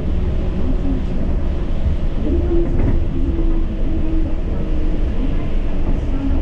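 Yurikamome rubber-tyred automated guideway train running: a steady low rumble, with a hum that steps up and down in pitch.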